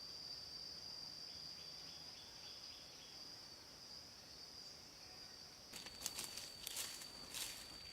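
Insects making a steady, high, unbroken drone. About six seconds in, a quick run of sharp knocks and clatter briefly rises over it.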